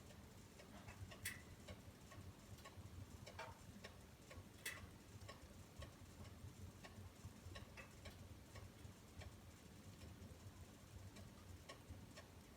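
Wood fire crackling in a fireplace: irregular small snaps over a low rumble of flames, with two louder pops about a second in and near the middle.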